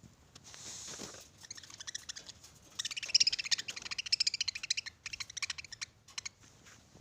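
Budgerigars chattering: a rapid run of short high chirps and clicks, busiest in the middle and thinning out near the end.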